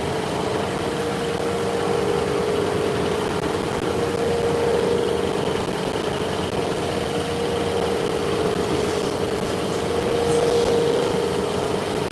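Machine-shop machine running steadily, a constant hum with a steady tone over machining noise.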